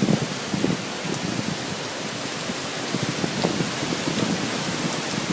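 Steady hiss of hurricane rain and wind, with irregular gusts swelling and fading.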